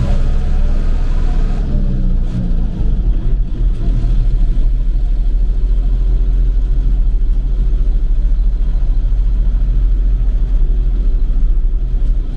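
Tractor engine running at a steady, even speed, with a loud low hum.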